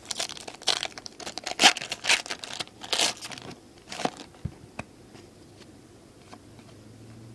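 A foil baseball card pack wrapper being torn open and crinkled, a run of crackling rustles for about four seconds, then fainter handling noises.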